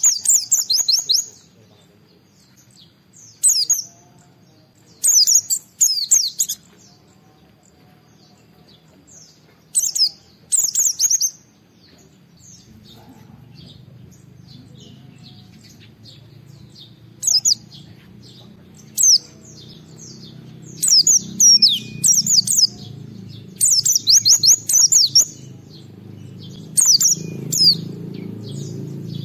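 A white-eye (pleci) sings in short, rapid, high twittering bursts, one phrase every few seconds, crowding closer together in the second half. This is the loud challenge song kept white-eyes give toward a rival. A low steady hum runs underneath and grows louder from about halfway.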